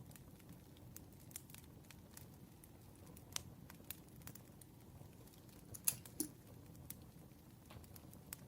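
Campfire crackling: scattered sharp pops and ticks over a low steady rumble of burning wood, with two louder pops in quick succession about six seconds in.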